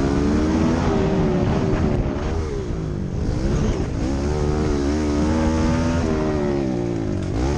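Kawasaki KLX 110 pit bike's small single-cylinder four-stroke engine being ridden, its pitch dropping and climbing again several times as the throttle is rolled off and opened.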